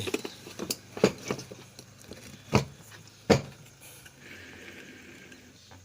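Ceiling fan being put back together by hand: scattered clicks and a few sharp knocks of metal parts as the spring and body cover are fitted, with two louder knocks a little after the middle.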